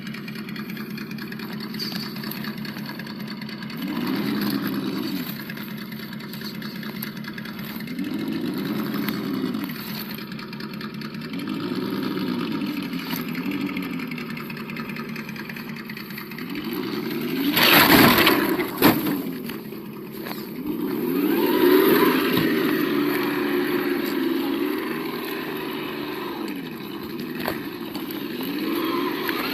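Absima Yucatan 1:8 RC crawler's sound module playing a simulated engine through its small speaker, idling and revving up and back down in short swells every few seconds. A loud rough burst of noise comes about eighteen seconds in.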